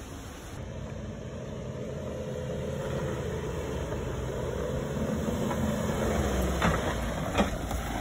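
Suzuki Jimny JB74's 1.5-litre four-cylinder petrol engine running at low revs as it crawls over rough off-road track, its pitch wandering a little, with a couple of sharp knocks near the end.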